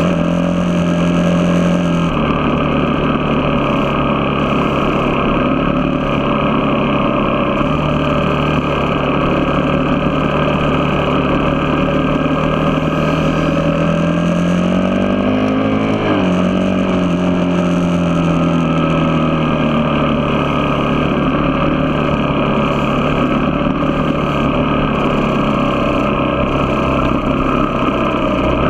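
A vehicle engine running steadily while under way. Its pitch shifts in small steps, then climbs and drops off around the middle.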